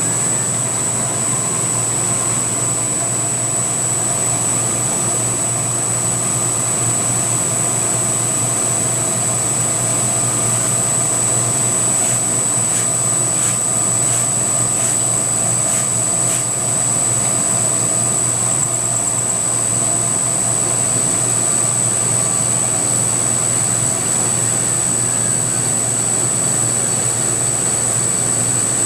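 IH/12Z CNC mill with a belt-drive spindle running through a cut, with the air blower on. It makes a steady mechanical noise with a constant high whine, and a few faint clicks come about halfway through.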